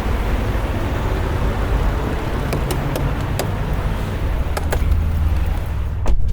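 Semi truck running, heard from inside the cab: a steady low engine hum under road noise, with a few sharp clicks. A louder knock comes near the end, after which the road noise drops away.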